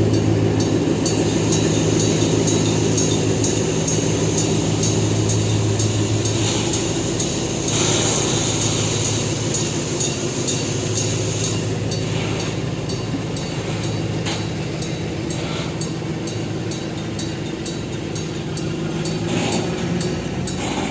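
A TCDD DE 24000-class diesel-electric locomotive drones steadily with its container freight train, the wheels clicking rapidly over rail joints and points. A brief high hiss comes about eight seconds in.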